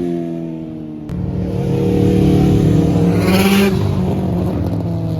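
A car engine being revved hard as the car pulls out. The revs fall off in the first second, then the engine comes back in suddenly and loudly about a second in and pulls strongly, with a short burst of hiss partway through.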